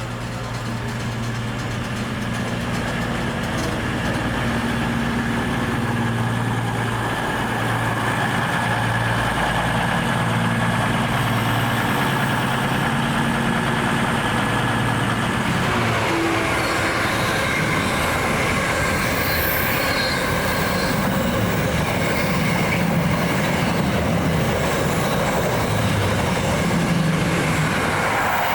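A train running past at a station, its sound building over the first few seconds and changing character about halfway through, with high squealing from the wheels.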